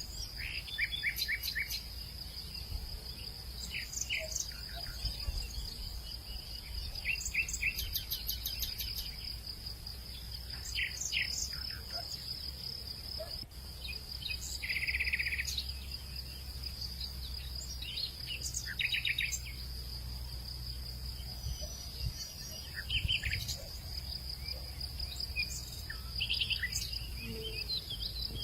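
Outdoor bird and insect chorus: a steady high-pitched insect drone runs under many short bird chirps and trills, with a low rumble underneath.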